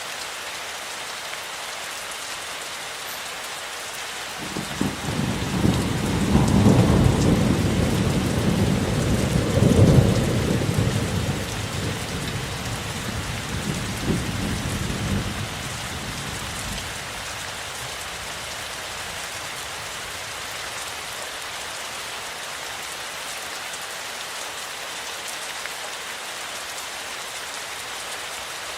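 Steady rainfall hissing, with a roll of thunder that rises about four seconds in, swells twice and rumbles away over roughly twelve seconds.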